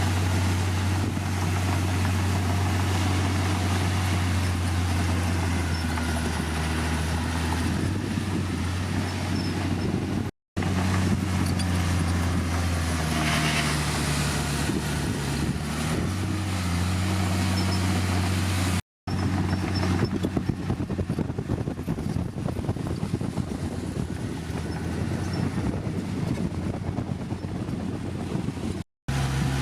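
Diesel engine of heavy earthmoving machinery running steadily, its pitch shifting a little now and then. The sound drops out for an instant three times, about a third of the way in, about two-thirds in and near the end.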